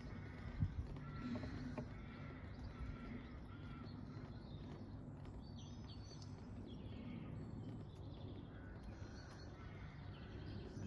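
Birds chirping and calling over a steady low background rumble, with one soft thump about half a second in.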